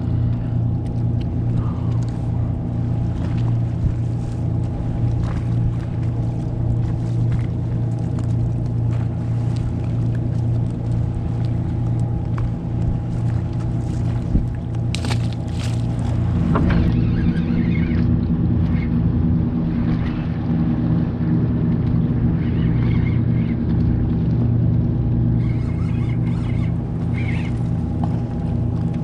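Boat engine running steadily with a low, even hum, with small clicks and knocks scattered over it.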